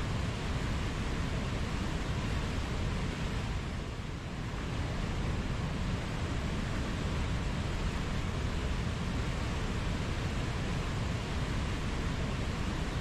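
Waterfall, a steady rush of falling water with a slight dip about four seconds in.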